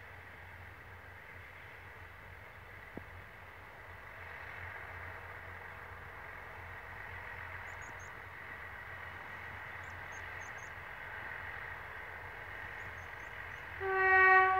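Distant diesel passenger train running along the line, a steady engine and rail drone slowly growing louder. Near the end its horn sounds one short, loud blast of under a second.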